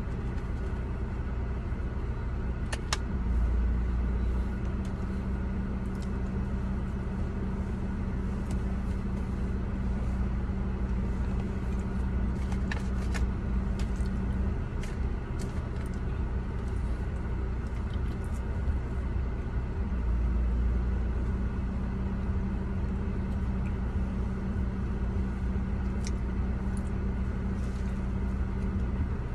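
Car engine idling steadily, heard from inside the cabin as a low hum that swells twice, a few seconds in and about two-thirds through. Scattered light clicks and scrapes of a plastic fork against a foil food tray.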